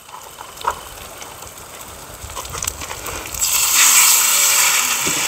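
A few light clicks, then about three and a half seconds in a loud sizzling hiss starts: breaded sea bass frying in hot oil in a pan over a wood fire.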